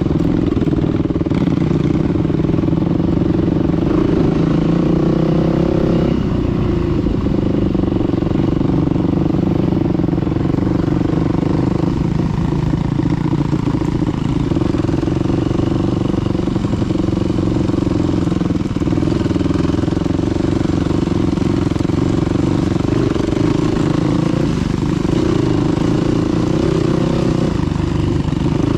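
Dirt bike engine running steadily under throttle while riding, its pitch dipping briefly a few times as the throttle eases and picks up again.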